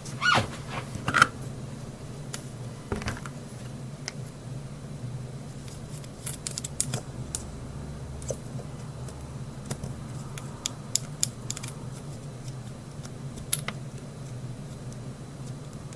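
Makeup items being handled: irregular small clicks and taps of cosmetic cases and lids, the sharpest two in the first second or so, then scattered lighter ticks, over a steady low hum.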